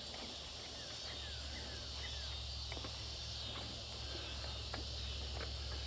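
Steady insect chorus, a high buzzing haze, under a low steady hum, with a few faint clicks from the push seeder's seed plate being swapped out.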